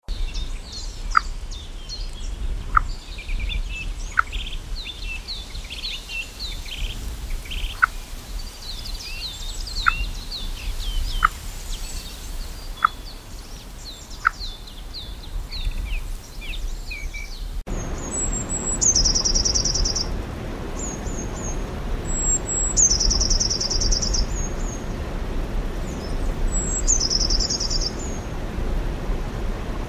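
Birdsong in two parts. First, small birds chirp in a busy chatter, with a sharp rising chirp about every second and a half. Then, after a sudden change about two-thirds of the way in, a great tit sings short phrases of high notes that drop into a fast trill, repeated every few seconds.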